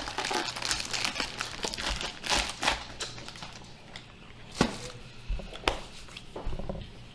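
Snack packaging crinkling and rustling as it is handled, dense for the first few seconds, then a few separate crackles and clicks.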